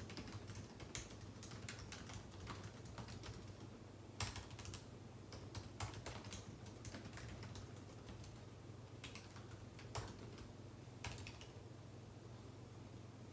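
Typing on a computer keyboard: irregular runs of key clicks broken by short pauses, with a few louder keystrokes. A low steady hum runs underneath.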